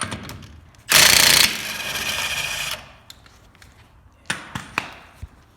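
Air impact wrench running for about two seconds, loudest in its first half second, spinning a lug nut off the race car's wheel. A few metallic clinks follow near the end.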